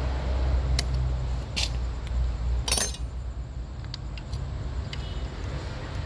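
Metal tools and small parts clinking while a motorcycle is worked on: a few sharp clinks, the loudest and longest about three seconds in, then fainter ticks, over a low steady rumble.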